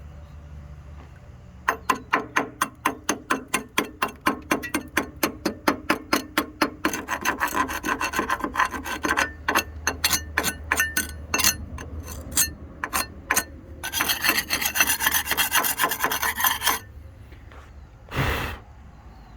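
Wire brush scrubbing slag off a fresh 7018 stick-weld bead on a steel truck frame: quick back-and-forth strokes, about four a second, starting about two seconds in and speeding up into continuous scrubbing that stops near the end, followed by one short scrape.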